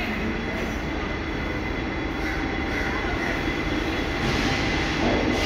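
Workshop traverser moving railway carriages, a steady mechanical rumble with a thin high squeal running through it. It grows a little louder near the end.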